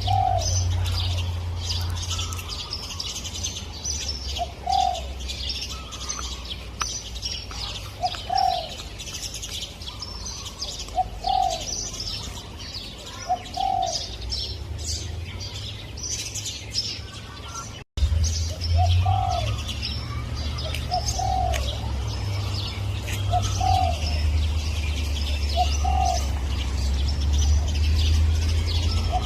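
Spotted dove cooing: short, arched coo notes repeated every two to four seconds, over steady high chirping of other small birds and a low rumble. The sound cuts out for an instant about 18 seconds in.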